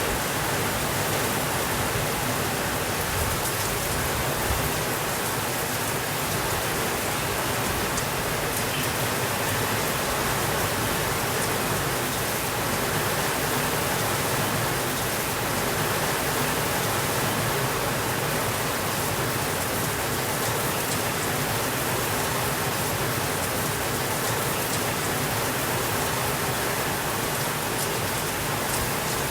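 Steady rainfall: a dense, even hiss of rain with no thunder, holding a constant level throughout.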